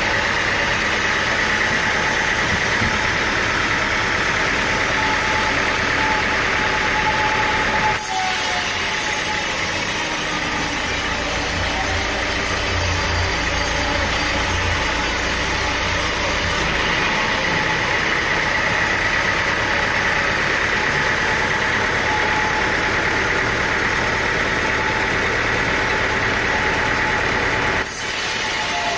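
An engine running steadily, typical of sawmill machinery at work. The sound changes abruptly about a third of the way in and again near the end.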